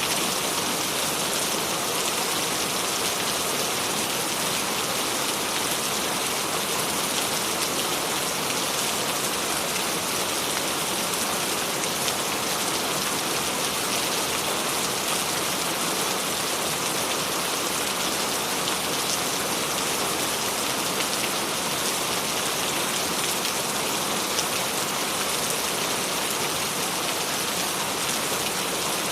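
Steady rain falling and pattering on a surface, an even hiss with no thunder or changes.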